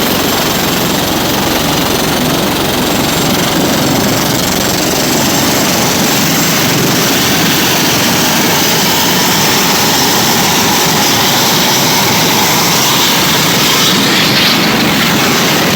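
Helicopter running close by: steady, loud engine and rotor noise.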